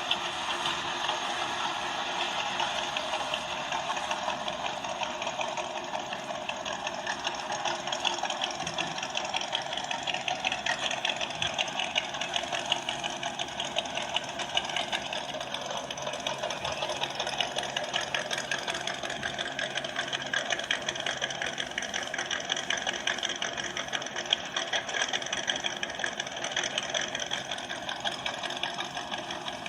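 Engine running with a fast, steady mechanical rattle.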